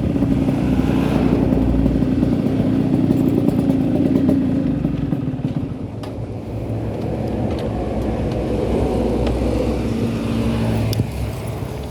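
Yamaha RX-King's single-cylinder two-stroke engine running with the deep, snoring 'ngorok' exhaust note. It holds a steady speed, eases off about halfway, then picks up again.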